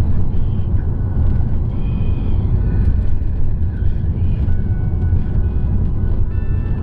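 Steady low rumble of a car on the move: road and engine noise, with faint music carrying held tones over it in the second half.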